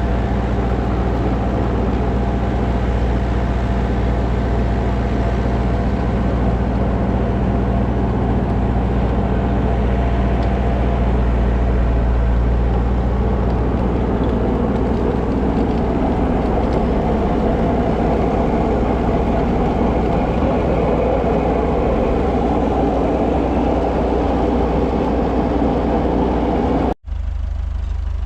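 Tractor engine running steadily with a low drone. It breaks off for an instant near the end, then carries on with a lower sound.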